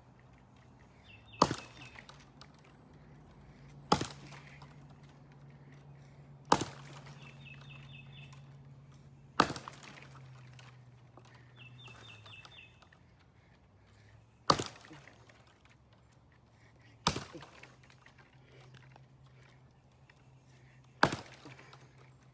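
Axe blows striking wood: seven sharp chops a few seconds apart.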